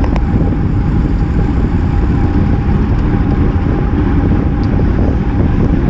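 Steady, loud wind rush on an action camera's microphone, from a road bicycle moving at race speed, mixed with tyre and road noise.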